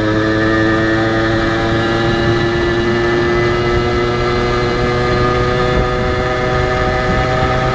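Honda H100S two-stroke single-cylinder motorcycle engine running under way, its pitch rising slowly and steadily as it gains speed.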